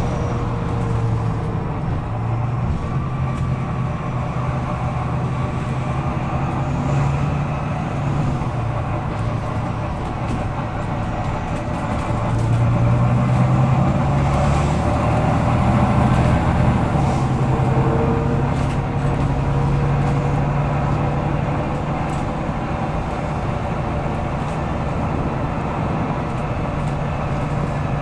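Volvo B9TL double-decker bus's diesel engine running under way, heard from inside the bus as a steady low drone with road noise. The drone grows louder for a few seconds near the middle. This is a bus the uploader calls over-revving.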